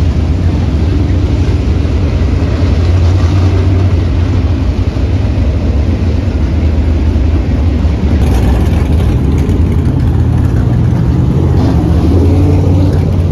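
Engines running with a steady low rumble.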